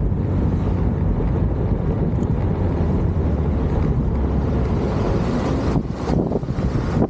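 Heavy wind buffeting the microphone as a steady low rumble, easing briefly about six seconds in.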